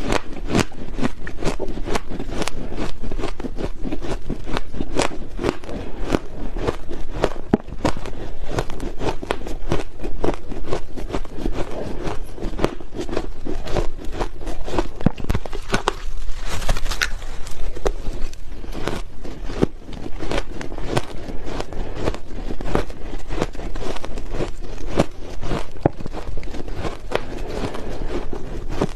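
Close-miked crunching of ice being bitten and chewed, a continuous run of sharp cracks and crackles.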